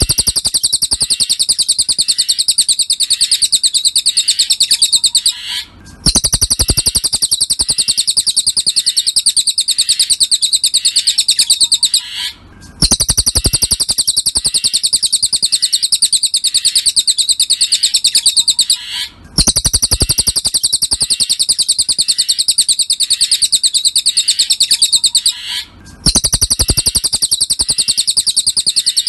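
Cililin songbird song: a dense, rapid, high-pitched twittering trill in phrases of about six seconds, each broken off by a brief pause, three pauses in all.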